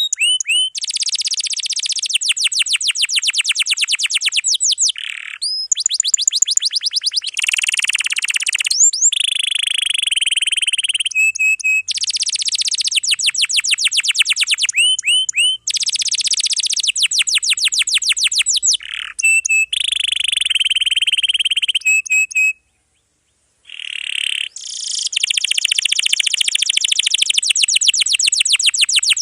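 Domestic canary singing a long, dense song, phrase after phrase of rapid trills and rolls, with a break of about a second shortly after the middle.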